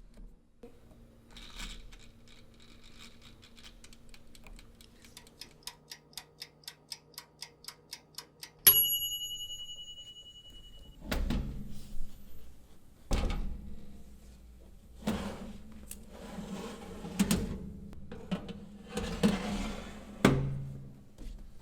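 A mechanical kitchen timer clicking steadily, then ringing once with a bright bell ding. After it come irregular knocks and clatter.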